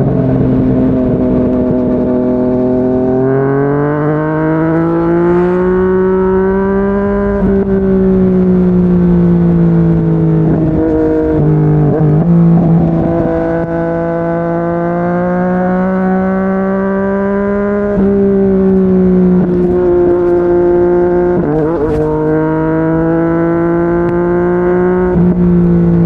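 Yamaha MT-09's three-cylinder engine running through a Yoshimura R55 slip-on exhaust at expressway speed. The engine note climbs and sinks with the throttle, with sudden jumps in pitch at gear changes, about three seconds in and again near the end, over wind rush.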